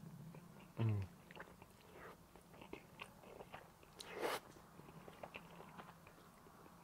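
A man chewing a mouthful of spaghetti, with small wet mouth clicks throughout. There is a short hum about a second in, and a slurp as he sucks in a strand of spaghetti about four seconds in.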